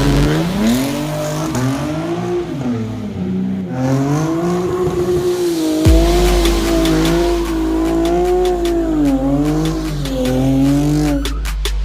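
Chevrolet Camaro SS V8 engine revving, its pitch climbing and falling repeatedly, over background music with a deep steady bass from about six seconds in.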